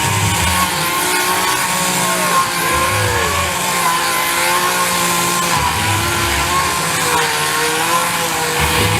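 Running two-stroke chainsaw engine, its pitch rising and falling in swoops over a steady drone.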